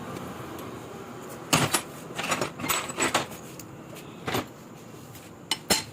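Hand tools clinking and knocking on a motorcycle engine case while its cover screws are fastened: a series of short, sharp metal clinks at irregular intervals.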